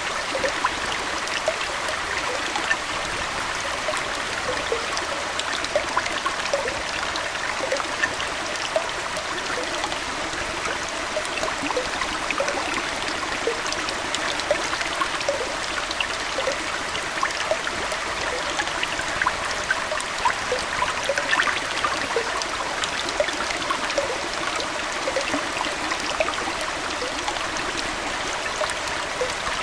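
Aquarium water flowing and trickling steadily, a continuous splashing hiss with many small bubbling plinks through it.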